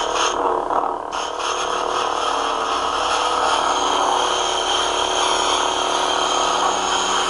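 Lightsaber sound font on a Crystal Focus saber board playing its second Force sound effect: a short burst at the start, then a dense, sustained noisy rush from about a second in, over the saber's steady hum.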